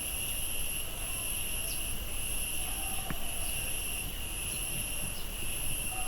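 Steady high-pitched insect drone from a cicada chorus, continuous without a break.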